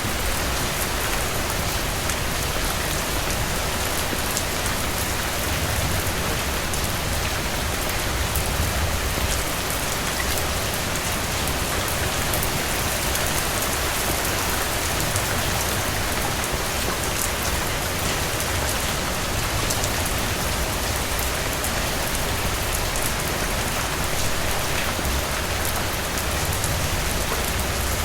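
Steady heavy rain falling on a cabin roof: a dense, even hiss of drops with fine ticks of individual drops and a low rumble underneath.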